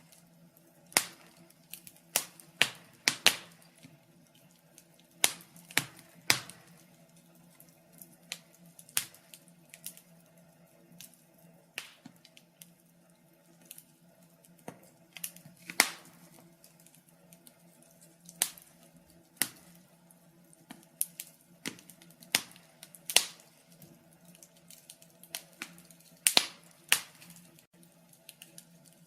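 Fire crackling: irregular sharp pops and snaps, often one or two a second, sometimes in quick clusters, over a faint low steady hum.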